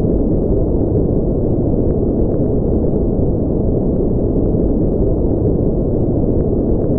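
Continuous generated sleep noise, steady and unchanging, low and muffled: its energy sits in the low and middle range and drops away above about 1 to 2 kHz, so it sounds deeper than true white noise.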